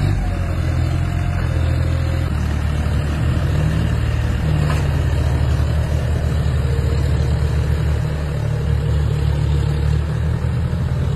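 Tractor engine running with a heavy, pulsing low rumble; its note shifts about two seconds in and then holds steady.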